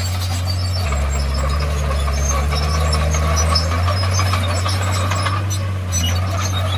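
Komatsu bulldozer's diesel engine running steadily under work. Its note takes on a deeper undertone from about a second in until about four seconds. Scattered light metallic clinks and squeaks sound over it.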